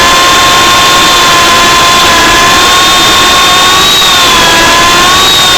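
MJX F45 radio-controlled helicopter's electric motors whining steadily in flight, with a brief rise and dip in pitch about four seconds in as the throttle changes.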